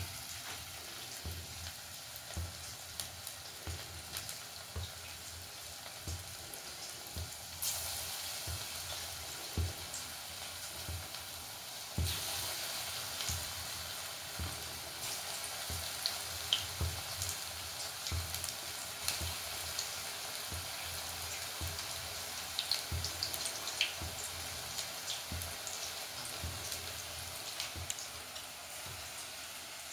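Onion pakoras, battered onion fritters, deep-frying in hot oil: a steady sizzle that gets louder about 8 seconds in and again about 12 seconds in, with scattered soft knocks.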